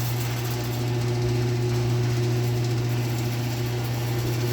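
Chamberlain C410 garage door opener running steadily with a low, even hum, moving a door whose counterbalance spring is broken, so the opener carries the door's full weight with no spring help.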